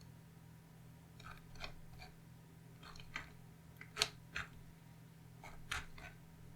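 Scattered faint clicks and taps, about eight of them in irregular succession, over a steady low hum.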